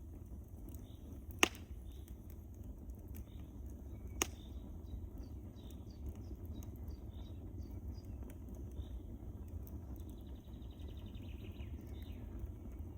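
Wood fire crackling over a low steady rumble, with two sharp pops, the loudest about a second and a half in and another about four seconds in.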